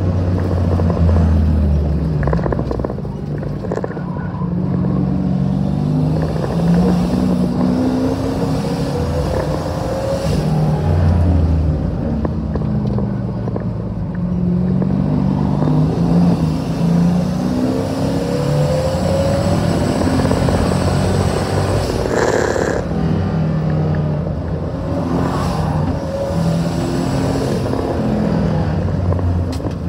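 Twin-turbo LSX V8 of a race-prepped Chevelle running hard on track, its pitch climbing, stepping and dropping again and again through acceleration, shifts and lifts. A short burst of noise about three quarters of the way through.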